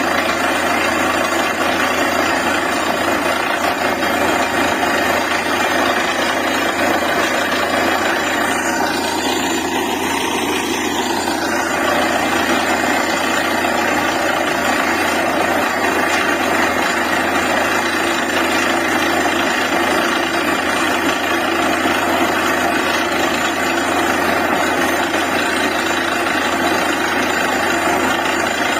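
DTH borewell drilling rig running steadily, a loud, even drone of its engine and air compressor, with a brief shift in tone about ten seconds in.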